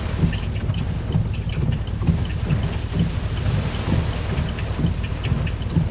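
Hurricane wind and heavy rain beating on a truck, heard from inside the cab: a constant low rumble with scattered ticks of rain hitting the vehicle.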